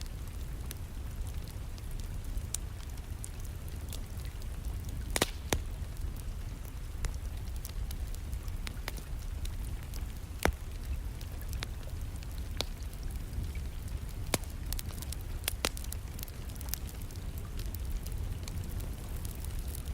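Wood fire burning in a fireplace, crackling with irregular sharp pops, a few louder ones about five, ten and fifteen seconds in, over a steady low rumble and the constant patter of rain in the background.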